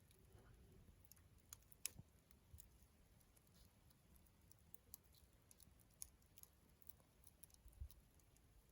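Wood campfire crackling faintly: sparse, irregular pops and ticks of burning wood, with a sharper snap about two seconds in and a dull knock near the end.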